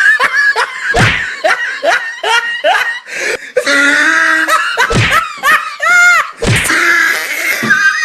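People laughing and shrieking, with sharp thumps about a second, five seconds and six and a half seconds in.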